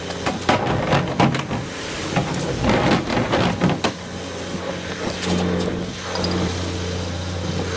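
Rear-loader garbage truck running steadily, with a rapid run of knocks and clatters in the first four seconds as rubbish is handled, then a steadier mechanical drone that strengthens about five seconds in.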